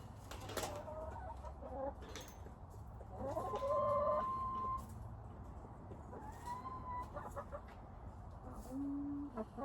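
Chickens calling and clucking, with one long drawn-out call that rises and then holds about three seconds in, a shorter call near seven seconds and a low brief cluck near the end, over light knocks and rustling.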